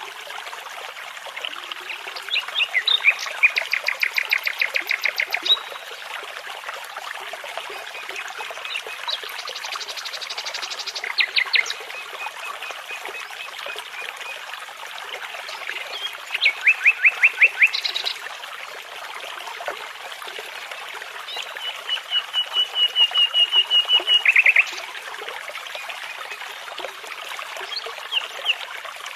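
Nightingale song over the steady babbling of a brook: phrases of rapid repeated notes come every few seconds, the loudest around three seconds in and again near seventeen seconds, and a long even trill runs from about twenty-one seconds and ends in a burst of fast notes.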